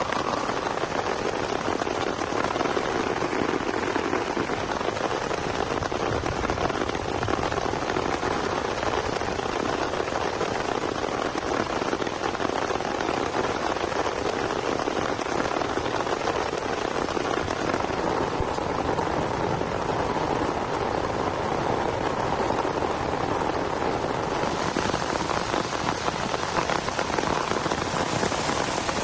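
Heavy rain falling steadily, an even dense patter of drops with no let-up.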